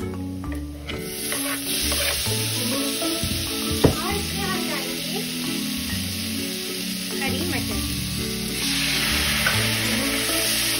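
Chopped tomatoes going into a hot stainless-steel pan of frying onions and spices, sizzling from about a second in. The sizzle gets louder near the end as green peas go in. One sharp knock comes a little before the middle.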